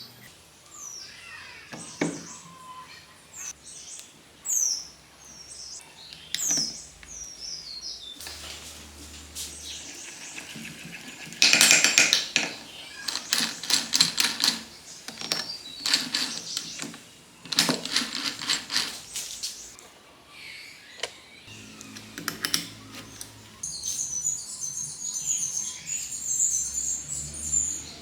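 Workshop handling sounds: a run of quick clicks and taps from parts and tools being handled, loudest around the middle, with birds chirping in the first several seconds and again near the end.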